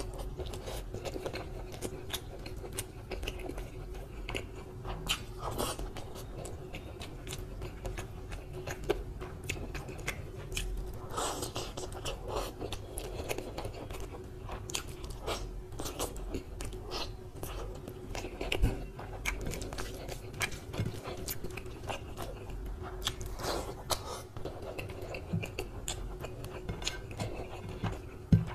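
Close-miked chewing and biting of a mouthful of mushroom pulao rice and chicken curry, with many small mouth clicks. A faint steady hum runs underneath.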